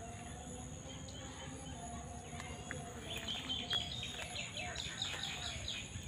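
Birds calling in the open, with a quick run of repeated chirping notes starting about halfway through, over a steady high-pitched hum and a low rumble.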